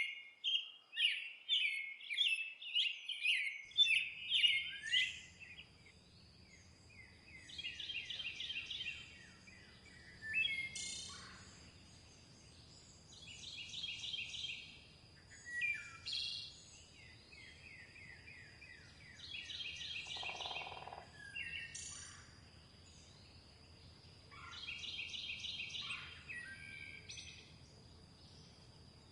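Songbirds singing: a loud, fast run of repeated chirps in the first few seconds, then a bird's short trilling song phrase repeated about every six seconds over a faint low background hiss. A thin steady high tone runs underneath.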